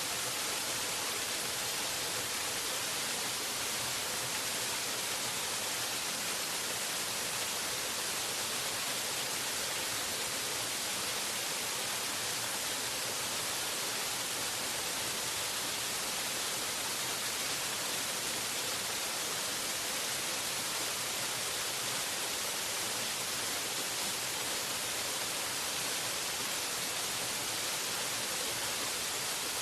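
Waterfall rushing steadily: an even, unbroken hiss, brightest in the treble, with no splashes or changes standing out.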